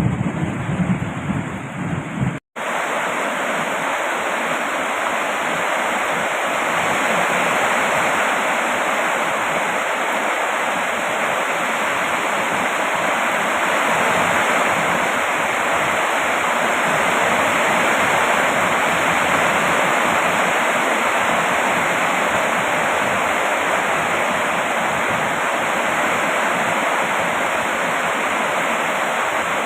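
Steady rain, an even unbroken hiss. For the first two seconds or so a louder low rumble sits under it; this cuts off abruptly with a split-second dropout, and the rain continues on its own.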